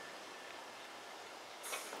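Faint steady rumble and hiss of an approaching diesel-hauled freight train on the rails, with a short sharp clatter near the end.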